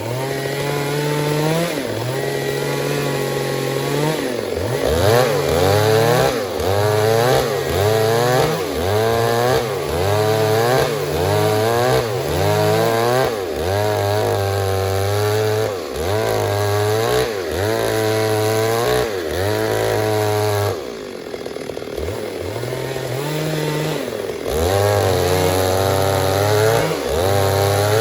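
Stihl MS 382 two-stroke chainsaw cutting wood, its engine speed rising and falling about once a second as the chain loads and frees. It eases off for about three seconds past the middle, then picks up again.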